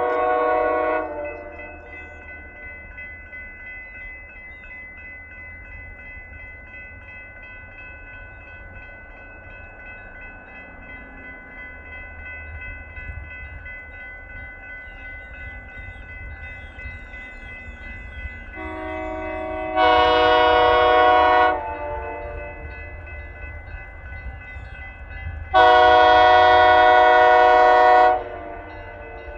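Locomotive air horn sounding a multi-note chord in long blasts: one blast ends about a second in, then two long blasts follow about six seconds apart, the spacing of a grade-crossing signal. A low rumble from the approaching train runs underneath between the blasts.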